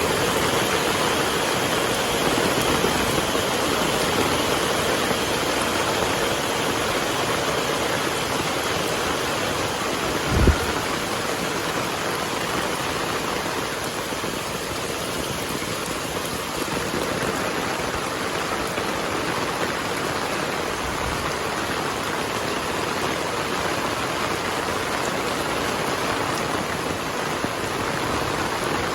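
Heavy rain falling steadily, with one brief low thump about ten seconds in.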